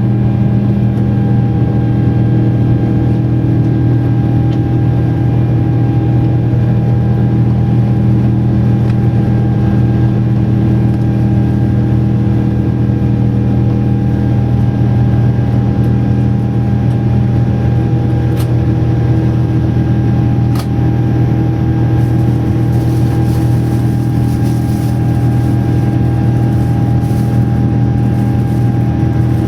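Steady airliner cabin noise: jet engines and airflow make an even roar with a constant low hum, with a couple of faint clicks past the middle.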